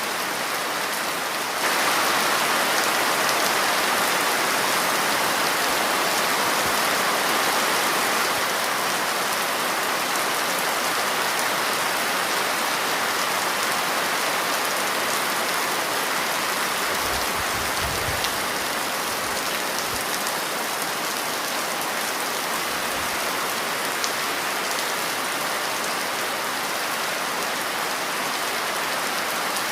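Steady rain falling on a surface, an even hiss of drops that grows a little louder about two seconds in. A brief low rumble sounds about halfway through.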